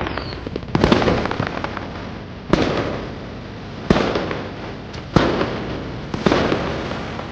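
Fireworks going off in the sky: about five sharp bursts, roughly every second and a half, each trailing away in a crackle.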